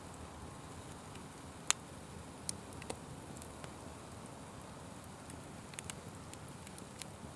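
A fire crackling: a steady low rush of burning with scattered sharp pops and crackles, the loudest one a little under two seconds in.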